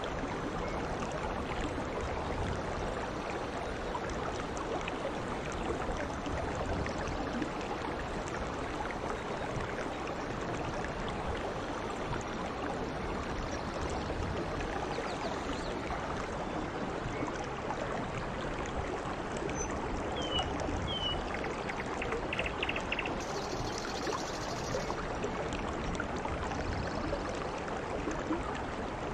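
Steady heavy rain falling on dense tropical foliage, an even hiss of water with no breaks.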